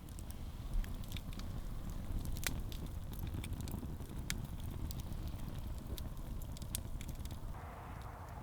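Wood campfire crackling, with scattered sharp pops and snaps over a low rumble.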